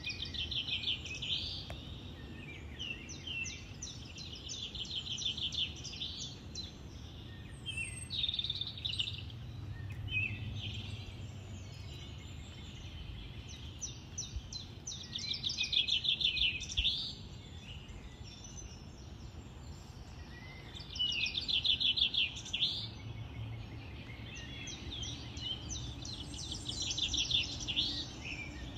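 Songbirds singing outdoors: fast trilled phrases, each a second or two long, repeated every few seconds, over a faint steady low rumble.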